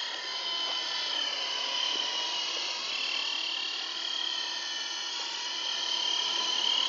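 Small electric radio-controlled helicopter in flight: a steady, high-pitched electric motor and rotor whine whose pitch wavers slightly as the throttle changes, getting a little louder near the end.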